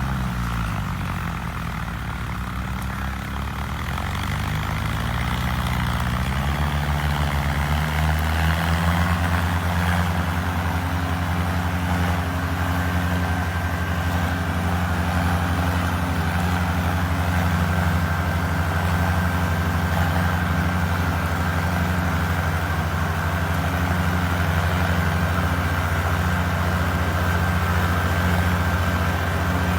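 Sawmill machinery running up to speed: a droning motor rises in pitch over the first several seconds, then runs steadily. A thin high steady whine joins about twelve seconds in.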